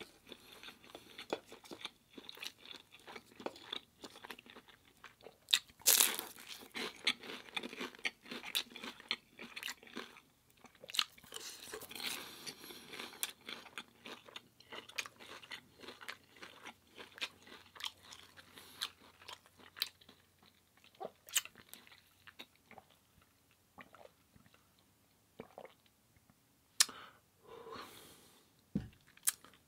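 Close-miked biting and chewing of crispy food, with a dense run of loud crunches about six seconds in, followed by softer wet chewing broken by occasional sharp clicks.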